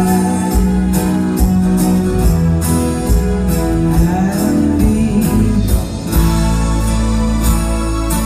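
Live pop band playing with electric guitar, held keyboard chords and a steady drum beat of about two strokes a second.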